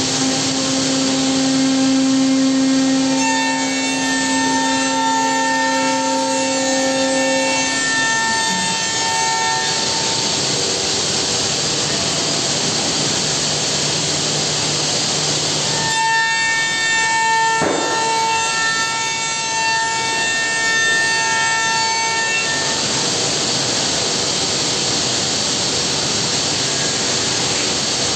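Homag five-axis CNC machine cutting wood: steady, loud machining noise, with a spindle whine of several pitches that comes in over the first third and again around the middle.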